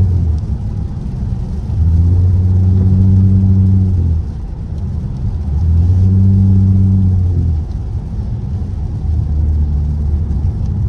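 Straight-piped SXT's exhaust droning as the car is driven, heard from inside the cabin. It swells loud twice under throttle, for about two seconds each time, holding a steady pitch, and eases off in between.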